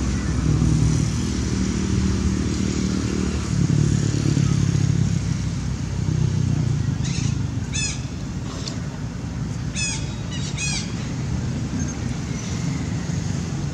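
A motor engine running, loudest in the first half and easing off later, with four or five short, high-pitched chirping calls around the middle.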